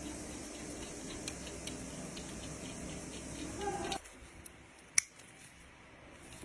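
Ratchet wrench clicking in a quick run of light ticks as the crankshaft main bearing cap bolts of a Mercedes CDI 313 diesel engine are run down, followed by one sharp click about five seconds in.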